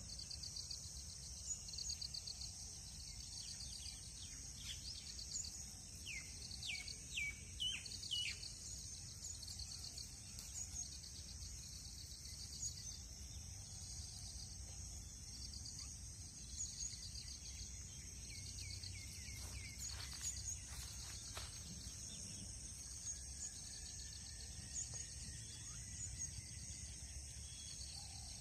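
Countryside ambience: a steady high insect buzz with short pulsed chirps repeating about once a second. A few falling whistled bird calls come about 6 to 8 seconds in and again near 19 seconds, over a low steady rumble.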